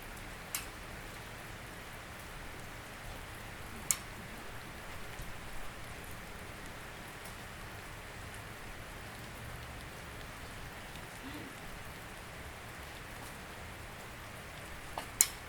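Steady rain falling, an even hiss, with three sharp louder drop strikes: one near the start, one about four seconds in, and the loudest near the end.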